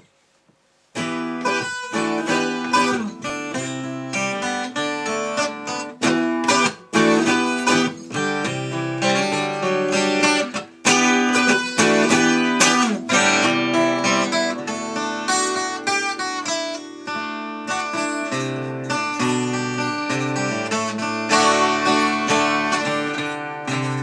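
An acoustic plucked string instrument played solo, notes and chords picked and strummed. It starts sharply about a second in, with two brief pauses along the way.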